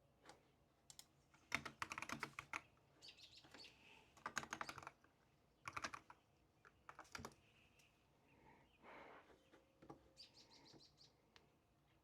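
Typing on a computer keyboard in several short runs of rapid key clicks. A small bird chirps a quick series of high notes twice.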